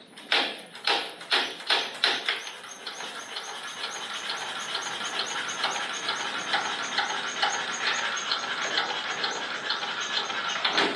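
Vintage Lister Petter petrol stationary engine being turned over by hand without firing. It begins as separate knocks, then settles into a steady fast clatter about four beats a second. It is not drawing fuel because the decompressor is set wrong, as the mechanic works out straight afterwards.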